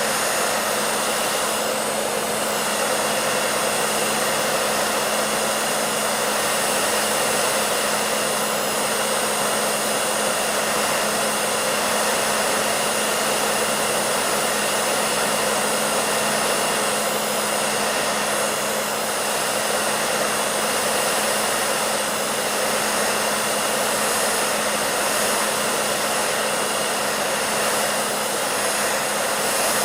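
Hair dryer running steadily: a continuous rush of blown air over a constant low motor hum.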